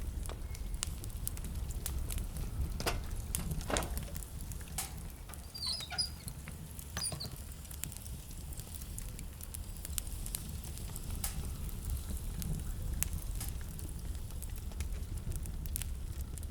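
Wood fire crackling: scattered sharp pops and snaps over a steady low rumble, with a few brief high-pitched squeaks about six seconds in.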